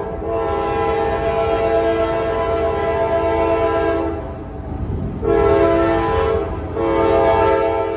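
Train horn sounding a chord of several steady tones: one long blast, then a short one, then a longer one, over a low rumble.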